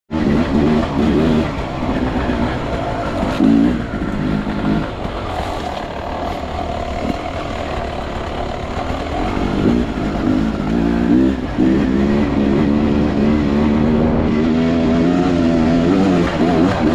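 Enduro motorcycle engine revving up and down as it is ridden, the pitch rising and falling in short bursts, then holding more steadily over the last few seconds.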